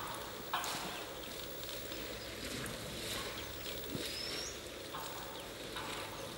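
Bird calls over steady outdoor ambience: a harsh, scratchy call about half a second in and a short rising whistled note about four seconds in.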